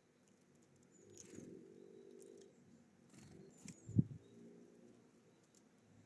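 Small birds at a feeder: a few faint, short, high chirps, and a low droning tone early on. A single sharp knock about four seconds in is the loudest sound.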